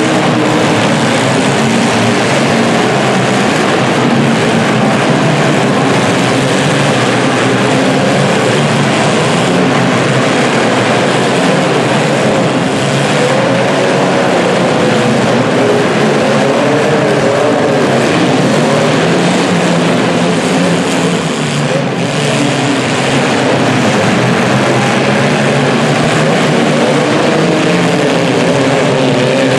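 Several demolition derby cars' engines running and revving at once, their pitches rising and falling over one another without a break.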